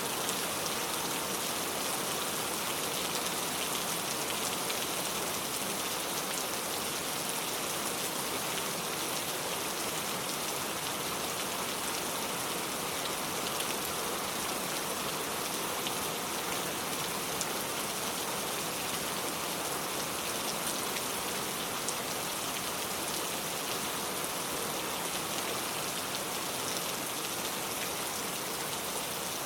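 Steady rain falling, a dense even hiss with the fine patter of individual drops striking surfaces.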